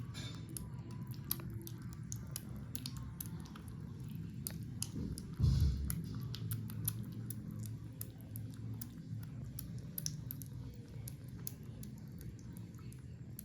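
Kittens eating wet food: quick, irregular wet clicks and smacks of chewing and lapping. One louder low bump about five and a half seconds in.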